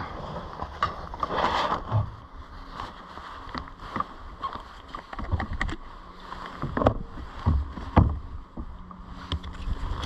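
Kayak on the water: paddle splashes and water sloshing, with irregular knocks and thuds against the hull, the loudest near the end.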